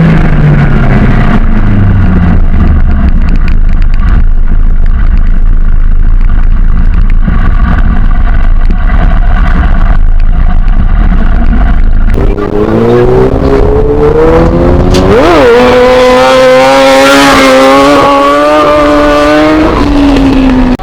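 Motorcycle engine revving: its pitch falls at first, then a steady rumble, then about twelve seconds in it climbs, blips once and is held at high revs with a hiss for several seconds before dropping back near the end.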